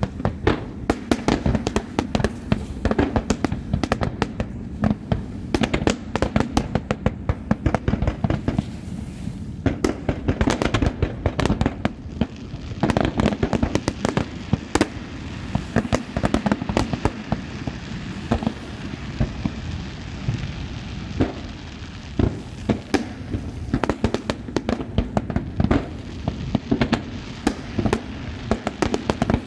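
Fireworks display: a rapid, unbroken barrage of bangs and crackles, several bursts every second.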